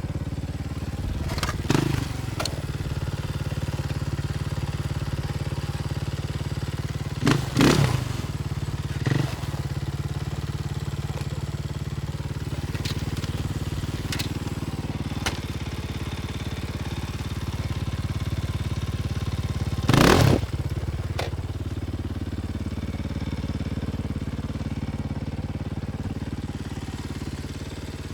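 Off-road race motorcycle engine running steadily, broken by several sharp knocks, the loudest about twenty seconds in.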